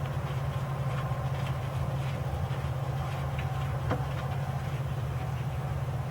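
A steady low mechanical hum, with a few faint clicks and one sharper knock about four seconds in.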